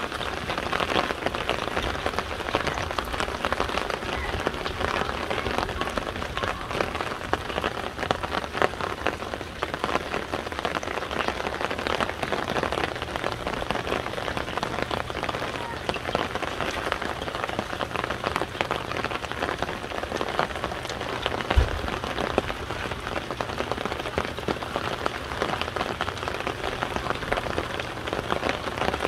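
Steady rain falling close by, thick with quick ticks of drops striking an umbrella overhead. About two-thirds of the way through comes a single short, low thump.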